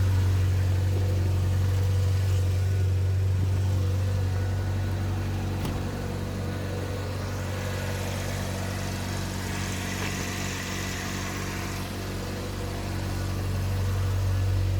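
Toyota Carina E's 1.6-litre 4A-FE four-cylinder engine idling steadily while still cold, after a night at about −4 °C.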